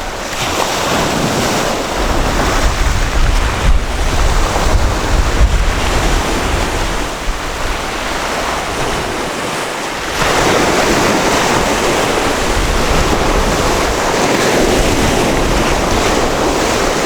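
Sea waves breaking and washing up a beach, with wind rumbling on the microphone in the first half. About ten seconds in, a louder wash of surf comes in and holds.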